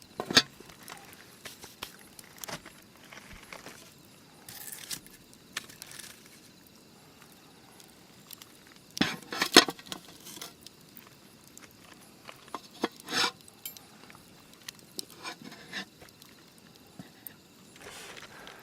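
Camp cookware and utensils clinking and knocking as they are handled, in scattered short clinks with the loudest cluster about halfway through.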